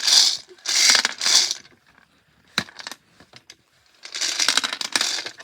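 Lottery balls rattling and clattering as they are shaken to mix them. There are three bursts of rattling, with a single sharp click in the quiet pause between the second and third.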